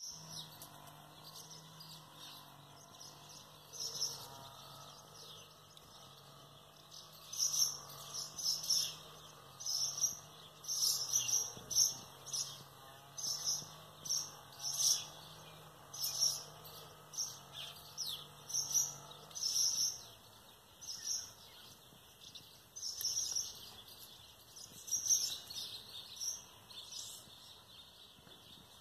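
Small birds chirping repeatedly in short high calls, busiest from about a quarter of the way in until near the end. A faint steady low hum lies underneath and fades out about two-thirds of the way through.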